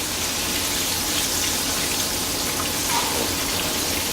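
Battered chicken frying in hot oil: a steady sizzling hiss with a few faint crackles.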